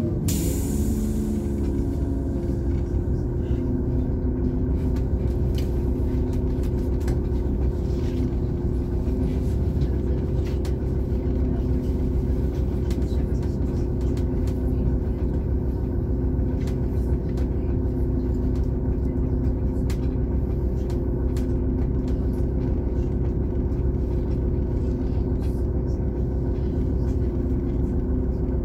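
A regional train heard from inside the carriage, rolling along with a steady low rumble and a constant hum. Scattered clicks come from the wheels passing over rail joints and points.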